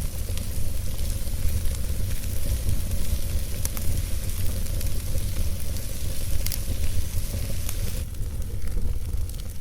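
Campfire burning: a steady crackling hiss with a few sharp pops scattered through, over a strong low rumble.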